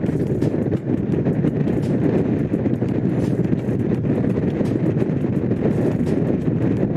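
Honda CX500's V-twin engine running at a steady pace under way, with wind rushing over the microphone.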